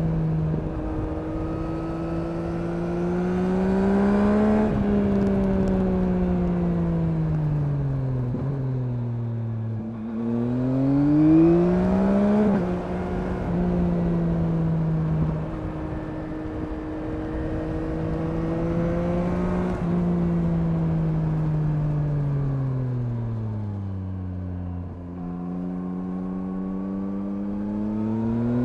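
2021 Yamaha MT-09's 890 cc inline three-cylinder engine heard from the rider's seat: revs climb, fall away, then climb sharply to a sudden upshift about halfway, hold steady, drop off again and build once more near the end. A steady rush of wind noise lies underneath.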